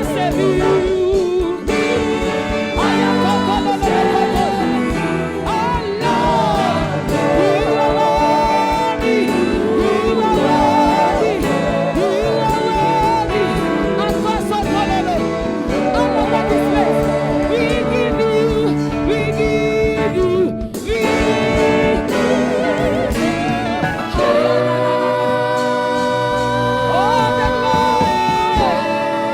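Gospel worship music: singing with wavering, melismatic vocal lines over sustained keyboard-like accompaniment.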